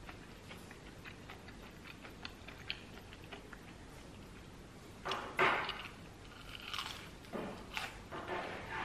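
A person chewing crispy deep-fried battered parasol mushroom with the mouth closed: many small crunchy clicks, then a few louder noisy bursts in the second half.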